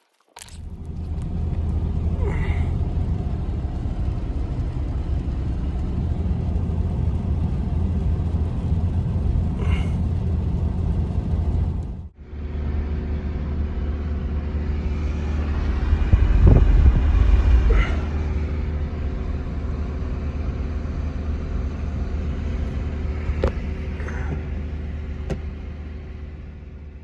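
Steady low rumble of a motor vehicle running at an even speed. It breaks off suddenly about twelve seconds in, starts again at once, and fades out near the end.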